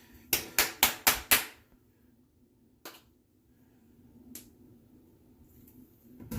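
Five quick sharp clicks in about a second, then two single clicks further apart: hands handling the aftershave balm container.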